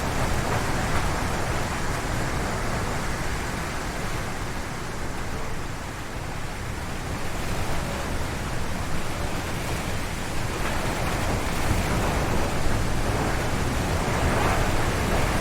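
Strong wind gusting through forest trees, a continuous rushing noise. It eases about six seconds in and builds into a stronger gust after about ten seconds.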